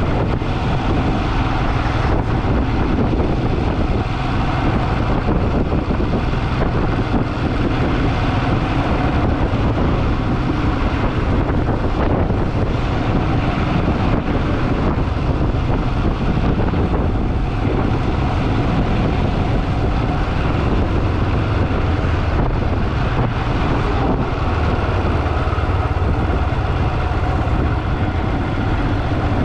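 Motorcycle riding at a steady speed: engine and road noise as a deep, even rumble, with no change in pace.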